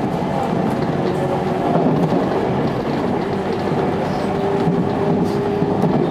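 Electric local train running at speed, heard from just behind the driver's cab: a steady rumble of wheels on rail with a steady hum over it and light rail clicks.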